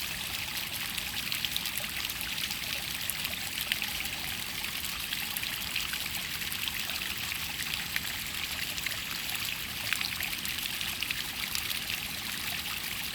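Rain-fed water trickling and flowing over rock: a steady hiss of running water dotted with many small splashes.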